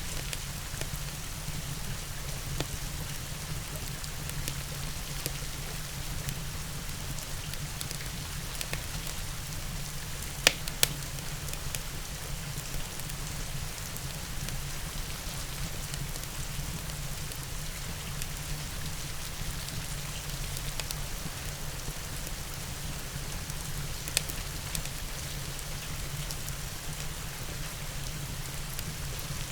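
Steady rain hiss with a low rumble underneath, and scattered sharp pops of a wood fire crackling. Two loud pops come about a third of the way in and another near the end.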